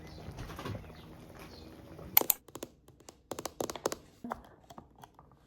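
A run of sharp, irregular clicks and knocks from small hard objects. The loudest comes about two seconds in and the rest follow over the next two to three seconds, over a low background hum.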